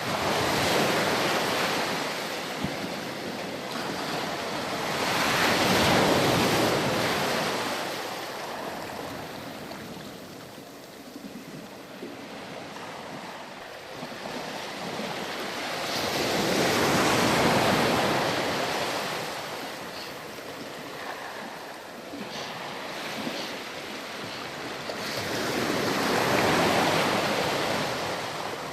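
Ocean surf on a sandy beach: waves break and wash up the shore, swelling and fading four times with quieter backwash between.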